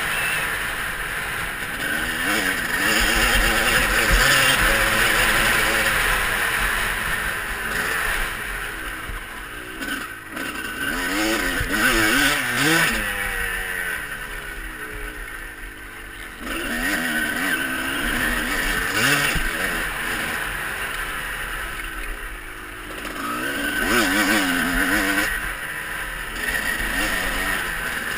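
Motocross bikes running on the track, their engines revving up and down again and again as the throttle is opened and shut, swelling and fading in loudness.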